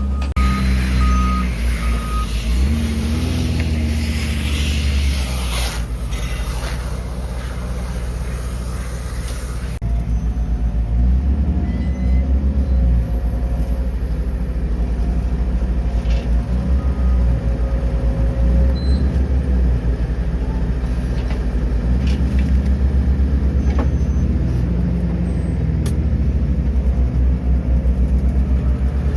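Tractor diesel engine running steadily under light load, with a few short high beeps in the first couple of seconds.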